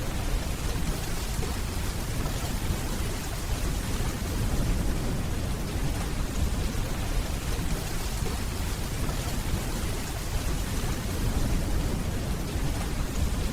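Steady rainfall, an even hiss with no break, over a continuous low rumble of distant thunder.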